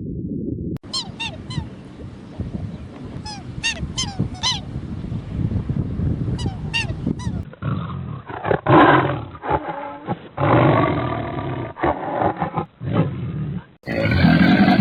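Animal calls from several short clips spliced one after another. First come high, short falling calls in quick groups of two or three, then louder, lower calls, and a new clip begins near the end.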